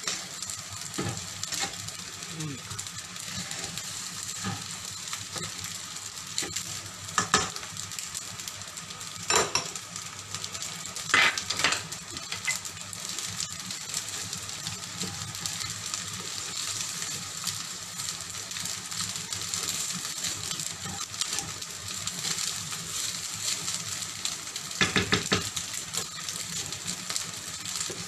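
Egg fried rice sizzling in an oiled frying pan as a spatula stirs and turns it, the egg drying into the rice. A few sharp knocks of the spatula on the pan come through, with a quick cluster near the end.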